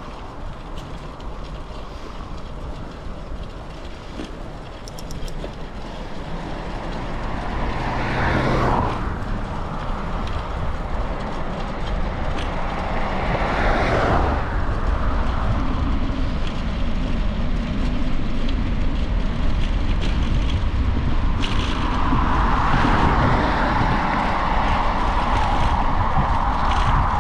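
Road noise on a bicycle ride: steady wind and tyre noise that grows louder partway through, with motor vehicles passing twice, briefly, about a third and halfway through.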